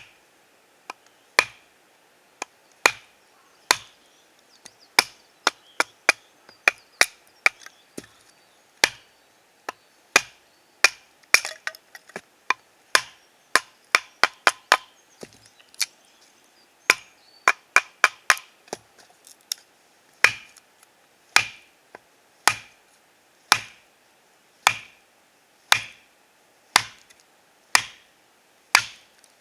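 Wood being chopped with a large bushcraft knife, a Scrama 200: a long series of sharp, dry strikes, mostly about one a second, with quicker runs of several blows in between.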